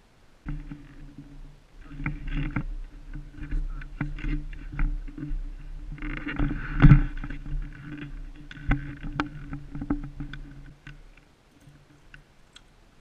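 Handling noise on a GoPro in its waterproof housing: muffled rubbing, scraping and scattered clicks and knocks as the camera is handled, loudest about seven seconds in and dying away near the end.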